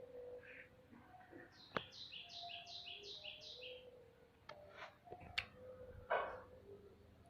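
A small bird repeats a quick run of about seven high, falling chirps, over low, held calls from hens. A few sharp clicks and a short rustling burst near the end.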